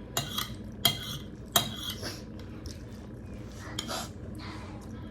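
Metal cutlery clinking against a plate during a meal of dal bhat: several sharp clinks in the first two seconds and one more near four seconds.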